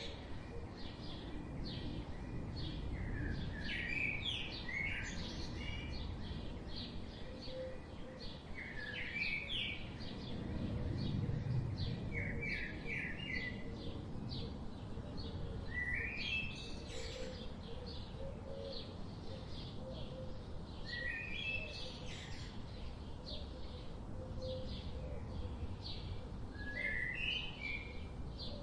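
Songbirds chirping in short, repeated phrases every few seconds over a steady low background rumble.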